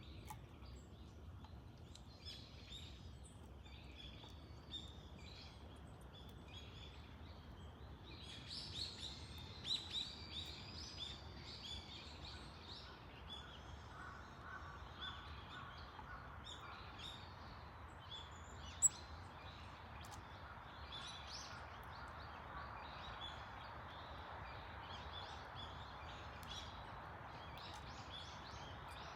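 Small songbirds chirping and calling in short, repeated notes, busiest about a third of the way in, over a steady low background hum. A single sharp click about two-thirds of the way through.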